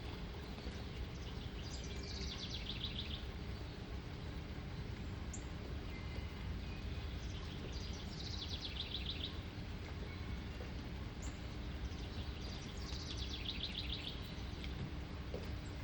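A small songbird singing the same short song three times, about five or six seconds apart: a quick run of high notes falling in pitch into a fast trill. Underneath is a steady background hiss.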